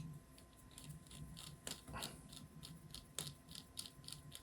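Faint, quick clicking, about four clicks a second, from a small screwdriver being turned on a screw with the wrong bit fitted, so the screw is going nowhere.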